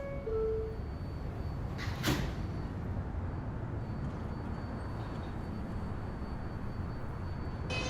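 Inside a New York subway car as the doors close: a short two-note falling door chime at the start and a sharp knock about two seconds in, over the car's steady low rumble. Near the very end the traction motors start a rising whine as the train begins to pull away.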